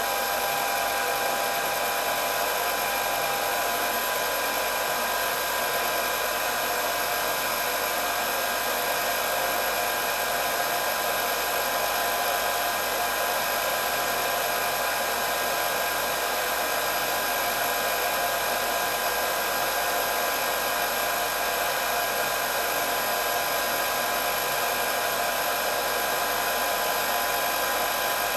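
Handheld electric hair dryer running steadily: an even rush of blown air with a constant high motor whine.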